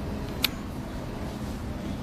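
Boeing 747-400 jet engines rumbling steadily at takeoff power, with one sharp click about half a second in.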